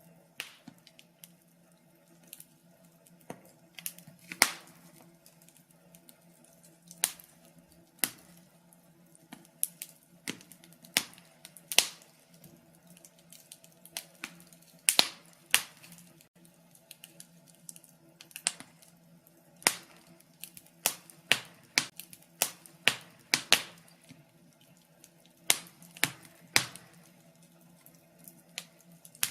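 Wood fire crackling in a fireplace: irregular sharp pops and snaps of burning logs, some loud and many small, over a faint steady low hum.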